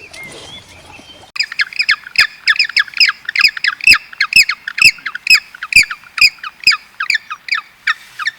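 A bird giving a rapid run of harsh squawks, about three a second, each call sliding down in pitch; the run starts a little over a second in.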